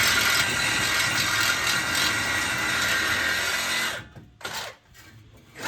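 A power tool running at a steady speed for about four seconds, then cutting off abruptly, followed by a few short knocks.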